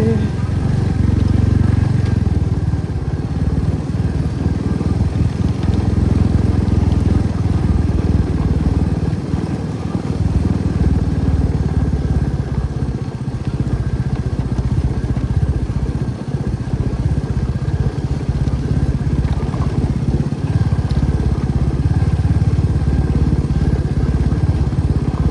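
Motorcycle engine running steadily while being ridden, a continuous low rumble.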